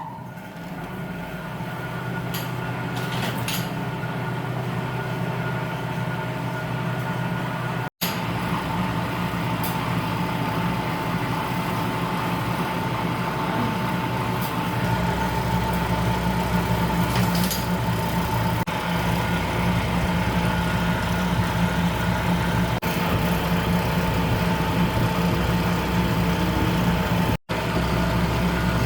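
A machine running steadily: a low motor hum with a thin, held whine above it, cutting out abruptly for an instant twice.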